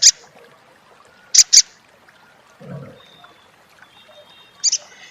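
Little spiderhunter (sogok ontong) giving its sharp, high 'crecet' call notes in quick pairs. One pair comes at the start, another about one and a half seconds in, and a short cluster near the end. A soft low sound falls in between.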